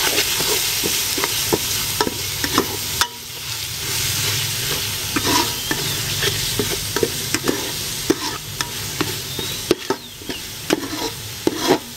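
Curry paste with pounded garlic sizzling as it fries in coconut cream in a pot, stirred with a spatula that scrapes and knocks against the pot many times.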